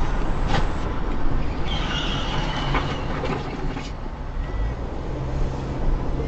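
Road and vehicle noise picked up by a dash cam: a steady rumble with a few short knocks, and a brief high-pitched squeal about two seconds in.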